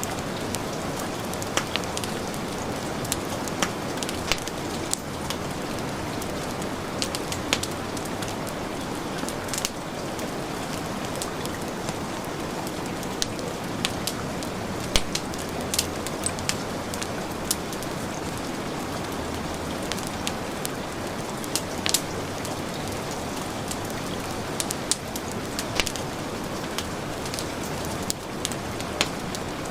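Heavy rain falling steadily, with a wood fire crackling over it: frequent sharp pops scattered across the rain's even hiss.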